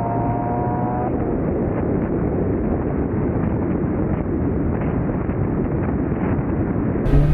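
Car engine pulling hard under acceleration, its pitch rising for about a second and then cutting off abruptly, followed by a steady dense rumble of engine, wind and road noise. Near the end the sound changes abruptly to a louder low rumble.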